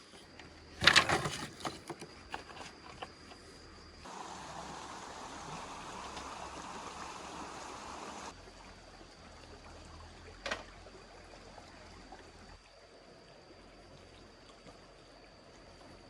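Water pouring steadily for about four seconds, starting and stopping abruptly, after a short clatter about a second in; a single knock follows a little later.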